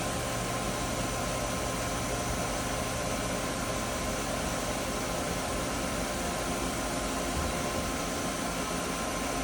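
Mori Seiki Frontier L2 CNC lathe running with its spindle turning at 1,000 RPM: a steady machine hum with a few constant whining tones.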